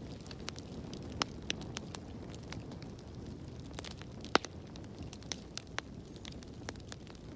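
Fire burning in a fireplace: a steady low rumble of flames with frequent sharp crackles and pops, the loudest pop about four seconds in.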